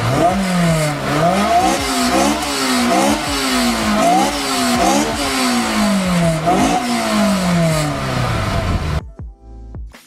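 Honda F20C inline-four in a Honda S2000 being revved hard in repeated blips, about one a second: the note jumps up sharply and sinks back each time. It cuts off suddenly about nine seconds in.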